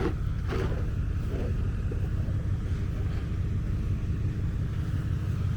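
Road traffic on a snowy street: a steady low rumble, with a faint engine hum joining about two seconds in.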